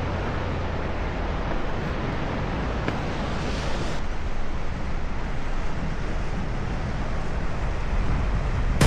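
Sea waves washing against a rocky shore, with wind noise on the microphone.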